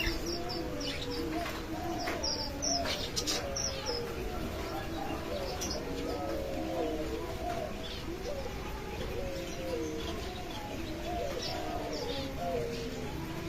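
Many doves or pigeons cooing over one another without a break, with smaller birds chirping above them in quick high series, most in the first few seconds.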